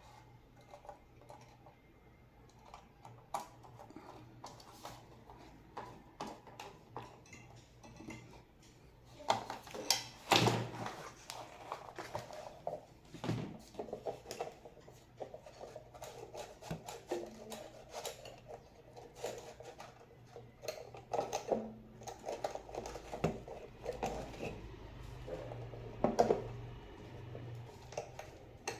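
Small clicks, taps and rattles of parts and tools being handled while working on an impulse bag sealer, with a few louder knocks about ten seconds in and again near the end.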